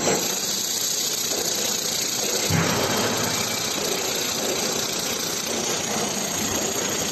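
Steady mechanical running noise from a machine, with a brief low thump about two and a half seconds in.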